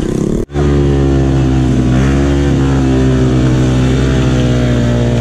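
Off-road motorcycle engine running hard at steady revs, with small rises and falls in pitch. About half a second in, the sound cuts out for an instant, then picks up again.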